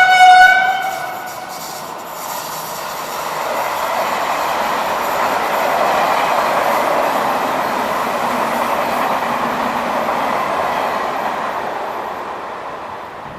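A train horn sounds one short blast, then a passenger train runs past on the tracks with a steady rumble that builds to its loudest about six seconds in and slowly fades.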